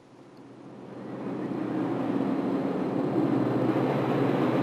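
Amtrak passenger train running: a steady rumble that swells in over the first couple of seconds and then holds.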